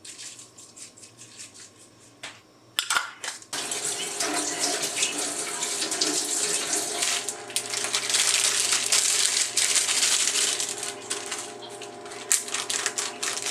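A few light clicks and a brief clatter, then about three and a half seconds in a tap is turned on and water runs steadily into a sink.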